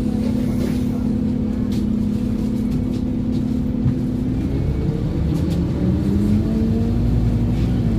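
Scania Omnicity N230UD double-decker bus heard from on board: the engine runs at a steady note, then from about halfway its pitch climbs as the bus accelerates and drops sharply near the end as the gearbox shifts up. Light rattles from the bus body.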